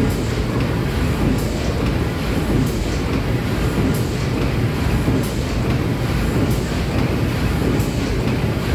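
Paddle steamer Stadt Rapperswil's steam engine running, a steady mechanical churning with a faint click repeating about every 1.3 seconds.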